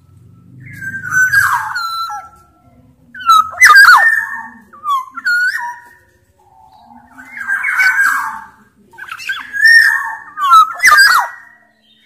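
Black-naped oriole (Sumbawa kepodang) calling loudly in a series of about six short phrases, each a run of sliding whistled notes, with one harsher, rasping call in the middle.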